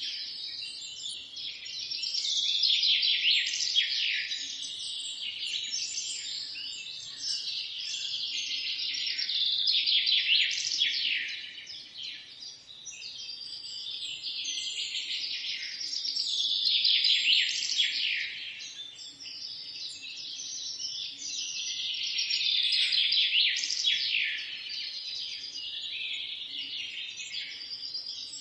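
A dawn-chorus-like mass of many songbirds chirping and singing at once, rapid high notes overlapping, swelling louder and fading back about every six or seven seconds.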